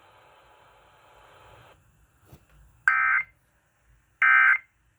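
Emergency Alert System end-of-message data tones from a radio broadcast: two short, identical bursts of shrill digital warbling, each under half a second and about a second and a half apart. They mark the close of the severe thunderstorm warning.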